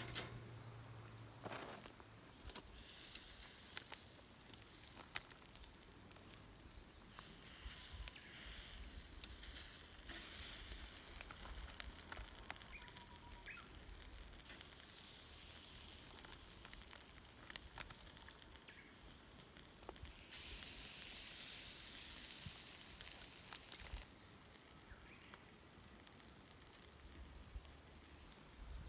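Foil-wrapped vegetables sizzling on a campfire. The hiss swells and fades in stretches of a few seconds, with scattered crackles and pops.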